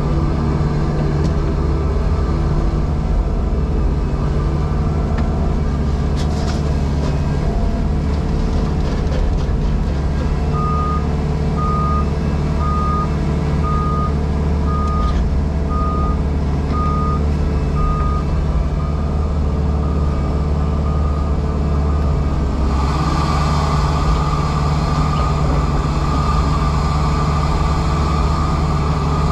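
JCB Pothole Pro's diesel engine running steadily, heard inside the cab, with its reversing alarm beeping eight times, about once a second, in the middle. Near the end the engine note grows louder and harsher as the machine works harder.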